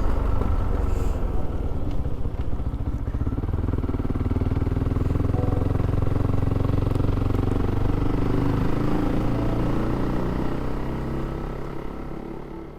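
Motorcycle engine running steadily under way; it fades out near the end.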